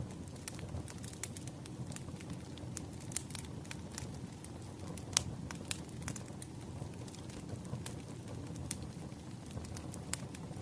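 Wood fire crackling: irregular sharp pops and snaps over a low, steady rumble of burning logs, with a louder pop about five seconds in.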